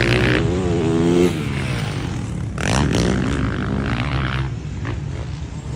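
Off-road motocross motorcycle engine revving, its pitch rising and falling with the throttle, strongest in the first second or so and again midway.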